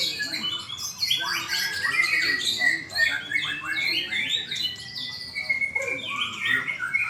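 White-rumped shama (murai batu) singing a rapid, varied song of whistles, chirps and harsher notes, with one long even whistle about five seconds in.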